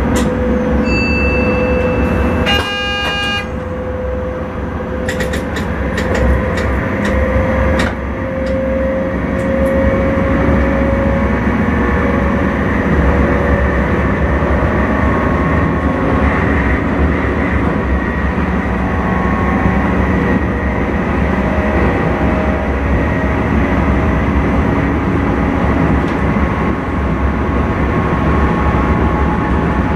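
Electric intercity train running, heard from the driver's cab, with a steady rumble and a motor whine that slowly rises in pitch as it gathers speed. There is a short beep about a second in, a brief high toot around three seconds in, and a run of sharp clicks over the next several seconds.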